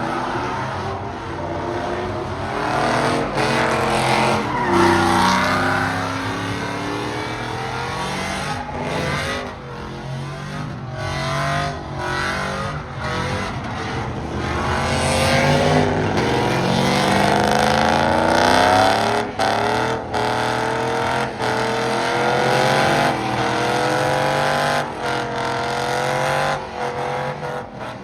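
Truck engine revving hard during a burnout in the pit, its pitch sweeping up and down again and again, over a haze of tire squeal.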